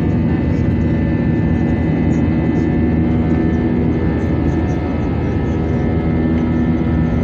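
Airliner engines running steadily at high power, heard from inside the passenger cabin as a loud, even roar with a steady hum.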